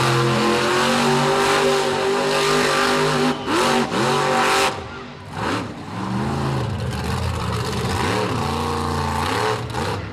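Monster truck engine revving hard, its pitch held high and then falling and climbing again in repeated swoops, with a short drop-off about halfway through.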